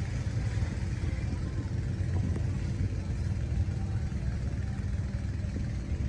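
Motorcycle engines idling steadily, a low even rumble with no revving.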